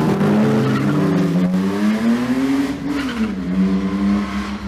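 Engines of BMW 3 Series stunt cars revving. The note climbs for over a second, drops about three seconds in, then holds steady.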